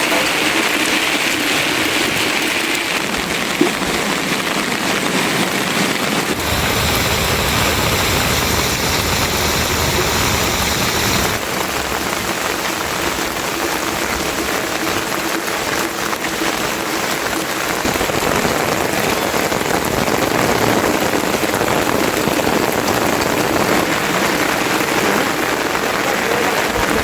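Steady rain falling, an even hiss of drops. For several seconds in the middle the sound turns fuller and deeper before settling back.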